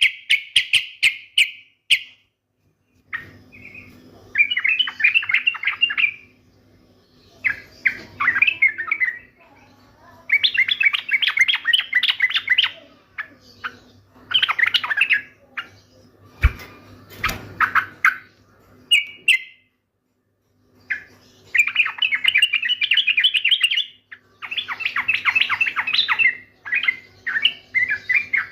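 Sooty-headed bulbul (trucukan) singing in repeated chirpy phrases of one to two seconds, separated by short pauses.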